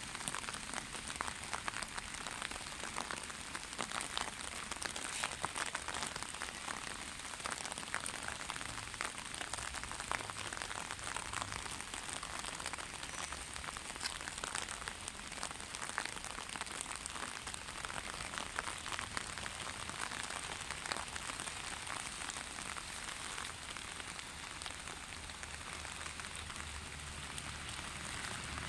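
Steady rain falling, with many individual drops pattering and splashing on hard surfaces over a continuous hiss.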